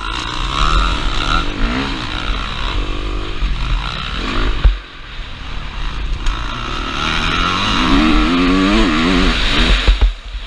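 KTM 350 SX-F single-cylinder four-stroke motocross engine revving up and down under throttle, with low rumble on the helmet-camera microphone. About halfway through the revs drop off briefly with a sharp knock, then climb again.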